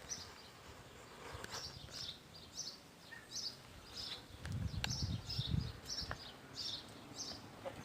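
Small birds chirping over and over with short high calls, and a low rumble about halfway through.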